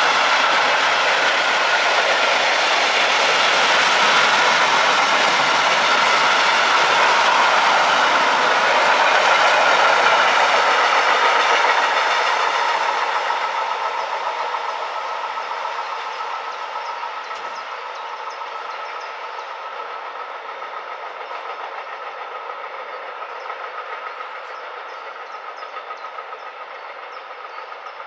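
Mixed freight train of sliding-wall and tarpaulin-covered wagons rolling past close by, a loud steady rumble of wheels on rails; about twelve seconds in the last wagons pass and the sound fades away as the train runs off down the line.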